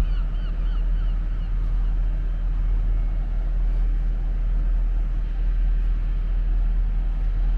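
Steady low rumble of road traffic, with a few short repeated high calls in the first second and a half.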